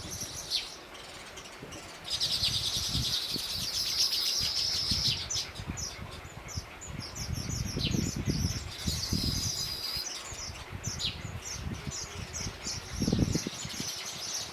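Small birds chirping, with long rapid high-pitched call series about two seconds in and again near ten seconds. Soft low rustling and fluttering sounds come and go underneath.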